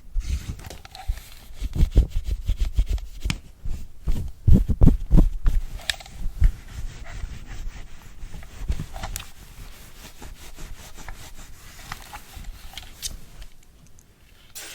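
Close-miked ASMR rubbing and scratching, as of a brush working over a device, mixed with soft knocks and a few sharp taps. It is busiest in the first half and thins out toward the end.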